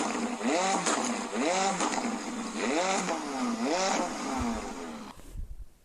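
McLaren 650S's twin-turbo V8 revved in quick blips, the pitch rising and dropping back about once a second, then cutting off about five seconds in.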